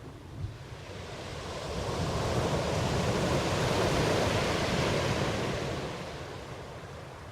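Ocean waves: one wave surges in, building over a couple of seconds, peaking about four seconds in, then washing back out.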